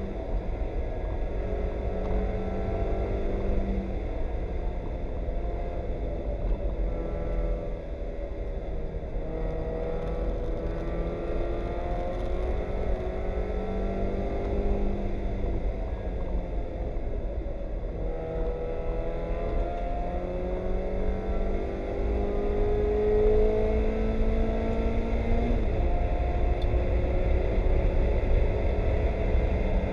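Spec Miata race car's four-cylinder engine heard from inside the cockpit under racing, its pitch climbing through the revs, breaking at gear changes and dropping for corners, several times over. A heavy low rumble runs underneath throughout.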